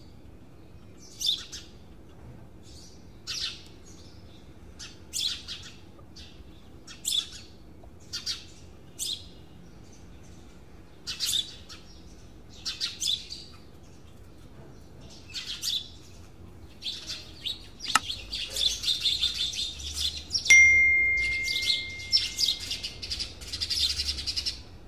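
Birds chirping in short high calls about every two seconds, turning into dense, continuous twittering near the end. A sharp click followed by a steady high tone of a couple of seconds comes in near the end and is the loudest sound.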